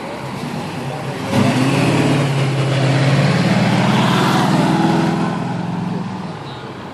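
A car's engine revving hard as the car accelerates past. It starts suddenly a little over a second in, rises, holds a steady loud note, and fades away near the end.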